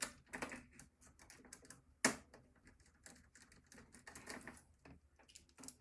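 Light irregular clicks and taps of computer parts being handled during disassembly, with one sharper knock about two seconds in and a brief scrape near four seconds.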